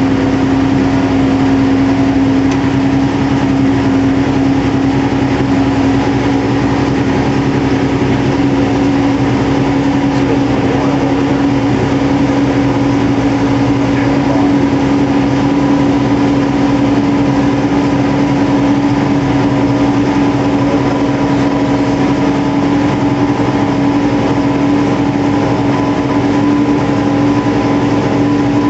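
632 cubic inch big-block Chevrolet V8 running on an engine dyno, held at a steady speed during its break-in run, its pitch creeping up only slightly.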